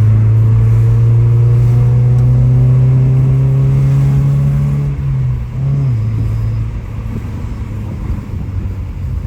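Car engine accelerating steadily in one gear, its pitch slowly rising, then easing off about five seconds in with a brief rev blip, after which it runs more quietly.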